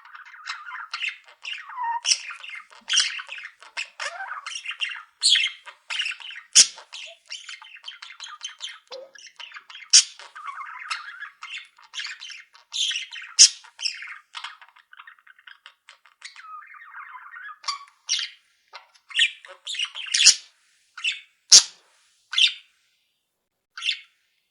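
Pet budgerigars chattering and squawking, warbled chatter mixed with many short, sharp calls, thinning out near the end. Three sharp clicks are heard among the calls.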